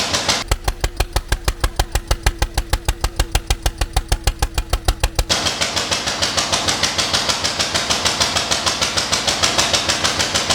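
Single-cylinder Ruston Hornsby stationary engine running with a fast, even beat. From about half a second in to about five seconds in, deep low thumps stand out with little hiss above them, then the clattering, hissier running sound returns.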